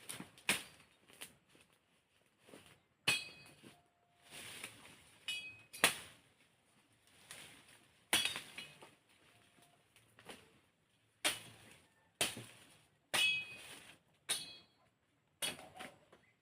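Machete chopping wood into firewood: a series of sharp strokes, about one a second and unevenly spaced, some followed by a short ringing tone.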